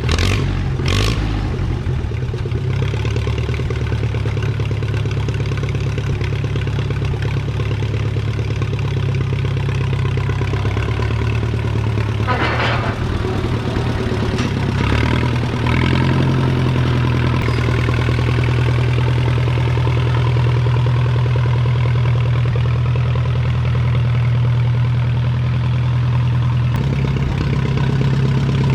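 Allis-Chalmers WD tractor engine idling steadily through a straight pipe, its pitch shifting slightly a couple of times, with a few brief knocks over it.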